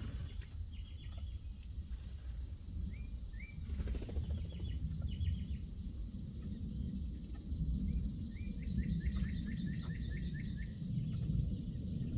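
Small birds chirping in short calls, with a rapid run of repeated chirps about eight seconds in, over a steady low rumble.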